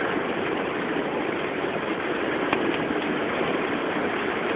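A car driving slowly through deep floodwater: a steady rush of water against the car mixed with the running engine.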